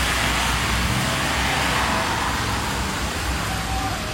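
Steady road traffic noise: an even rushing hiss over a low rumble, with no single passing vehicle standing out.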